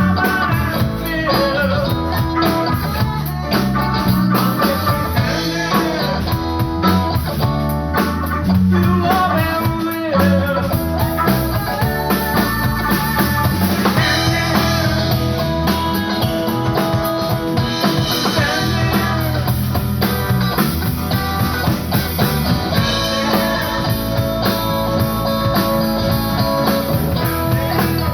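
A live band playing, with guitar leading over a drum kit.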